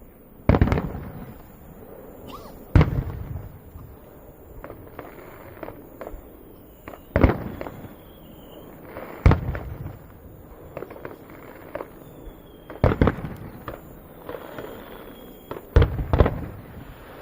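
Fireworks bursting overhead: a series of loud booms about every two seconds, each with a rolling tail, with smaller crackling pops and faint whistles between them.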